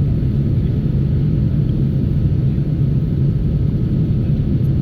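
Jet airliner engines running, a steady low rumble that holds even throughout.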